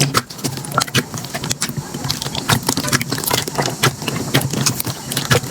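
Slime being squeezed and worked by hand, making a rapid, irregular run of small clicks and pops.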